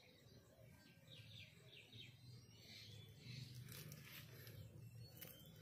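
Near silence, with faint bird chirps in the background, including a quick run of short chirps about a second in, over a faint low rumble.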